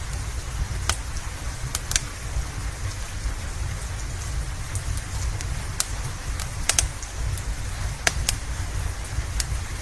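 Steady rain falling, with a low rumble underneath, and the sharp, irregular crackles and pops of a wood fire burning in a fireplace, about nine in all.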